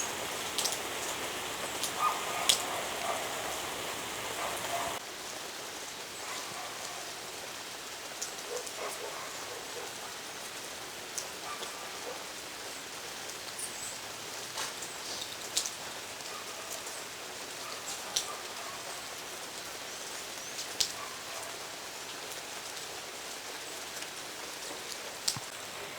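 A steady hiss peppered with scattered sharp ticks and pops, which drops in level about five seconds in.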